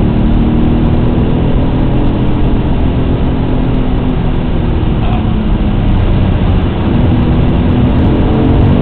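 Alfa Romeo GTA's engine under load, heard from inside the cabin: it holds a steady note, drops in pitch around the middle as the driver comes off the throttle, then climbs again near the end as it accelerates. Road and wind noise run underneath.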